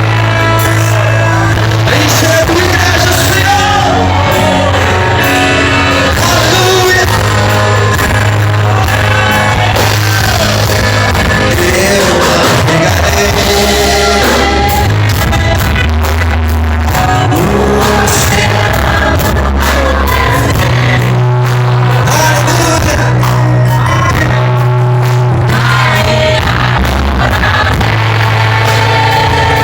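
A band playing with a singer over a prominent bass line.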